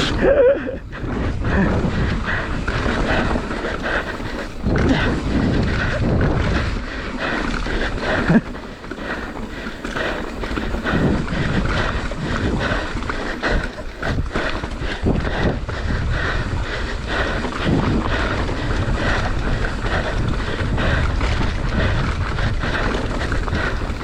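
Mountain bike descending a rough dirt trail: wind buffeting the microphone over the rattle and clatter of the bike and tyres on the ground, with a hard jolt about eight seconds in.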